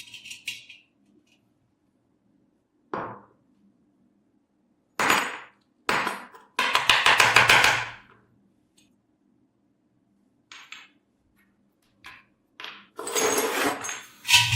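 Tools working on metal stove parts in separate short bursts: knocks and clinks, and a longer scraping spell of about a second a little over halfway through, with silent gaps between.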